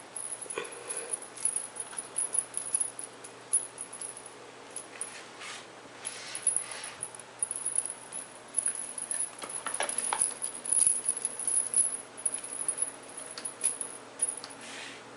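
Scattered small rattles and clicks as Ragdoll kittens move about and play.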